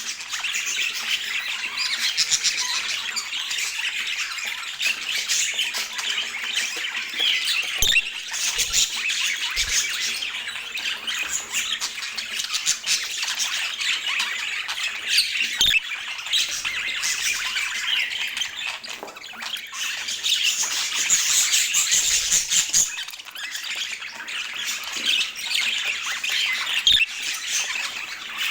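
Budgerigars chattering and squawking continuously, a dense stream of fast chirps and warbles, with a few soft knocks.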